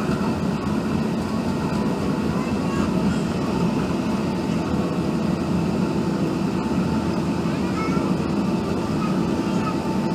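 Steady engine and airflow rumble inside an Airbus A380 passenger cabin, with a constant thin whine and a few faint squeaks.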